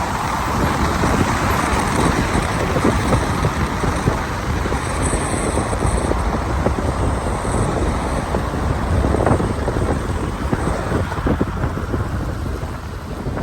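Car driving on rain-wet streets: a steady low rumble of the car and its tyres under a hiss of rain, with scattered small crackles.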